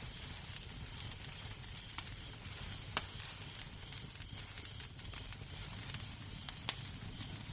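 Wood fire crackling in a fireplace: a steady low rumble and hiss with scattered sharp pops, the loudest about two, three and nearly seven seconds in.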